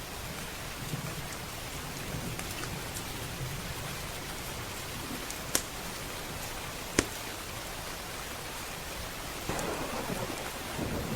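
Steady heavy rain with low rolling thunder, and two sharp pops of a crackling wood fire about a second and a half apart in the middle. Near the end the rumble swells louder.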